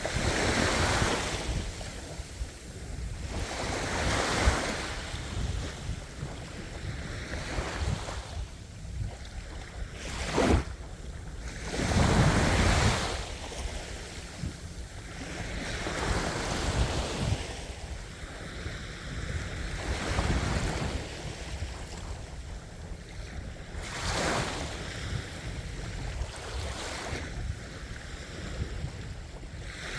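Ocean waves breaking and washing up the shore, each surge swelling and fading about every four seconds, the biggest about twelve seconds in. Under them runs a steady low rumble of wind on the microphone.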